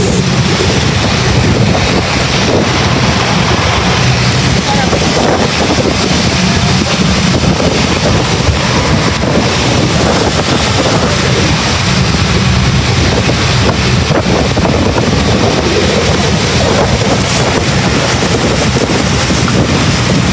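Tour boat's motor running steadily as it cruises along the river, with wind buffeting the microphone and water rushing past the hull.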